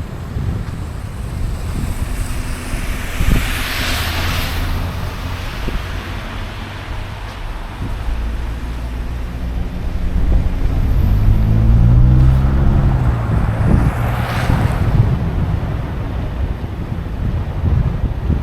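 City street traffic: two vehicles pass with a hiss that swells and fades, about four seconds in and again near the end. In the middle a heavy engine's note rises and falls over a steady low rumble.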